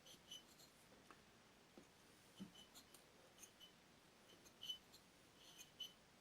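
Faint, irregular little ticks and scrapes of a length of mower starter cord being pushed by hand into the spark plug hole of a Stihl BR 600 blower's engine, packing the cylinder to lock the piston.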